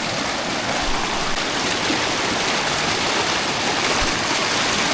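Fast, swollen mountain river rushing loudly and steadily over rocks.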